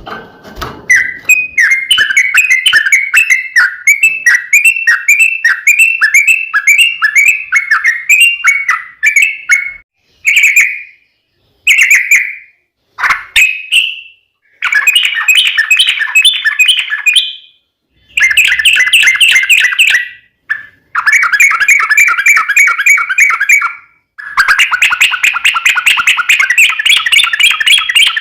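Yellow-vented bulbul (trucukan) singing. It first gives a run of evenly repeated chattering notes, about two a second, then after a few short calls breaks into long, rapid, bubbling phrases with brief pauses between them.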